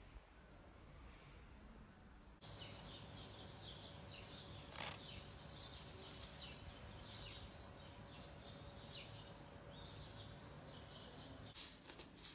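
Many small birds chirping: a dense, faint chorus of short high calls that starts about two seconds in. Near the end a few sharp clicks and rustles come in.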